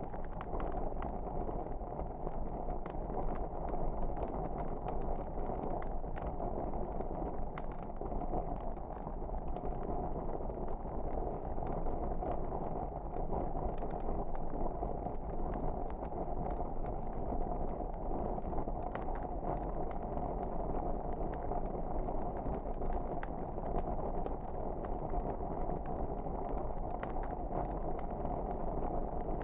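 Wood fire burning steadily: a constant low rush of flames with irregular crackles and pops throughout.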